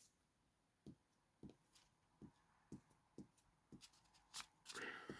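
Faint paper handling with a glue stick: soft taps and clicks about twice a second, and a brief rustle of paper near the end.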